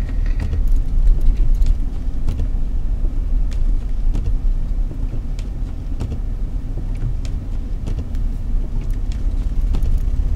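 Car driving slowly through a snowstorm, a steady low rumble of engine and tyres with scattered faint ticks.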